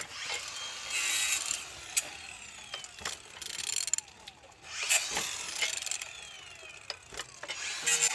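Ratchet wrench clicking as it turns a BMW N43B20A engine's crankshaft over by hand, in several bursts of strokes with short pauses. The engine turns freely.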